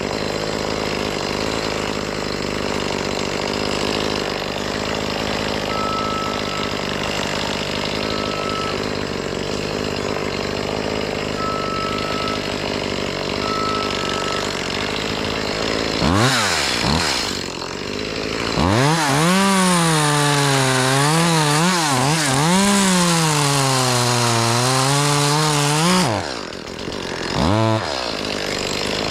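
Chainsaw idling steadily, with four short high beeps in the middle. About sixteen seconds in it is revved up and cuts through a limb, its pitch sagging and climbing again under load for about ten seconds. A short blip of throttle follows, and it revs again at the very end.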